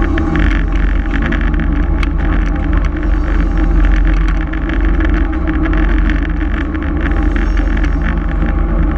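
Diesel engine of a switcher locomotive running steadily as the train moves, with scattered clicks and rattles.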